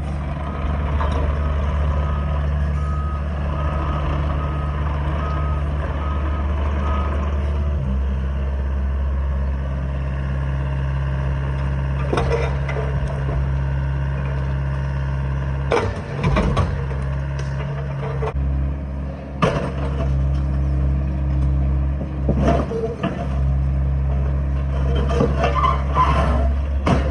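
Diesel excavation machine running steadily, with a reversing alarm beeping for the first several seconds. Later come several sharp knocks and clanks as broken concrete is dug out and loaded, more of them near the end.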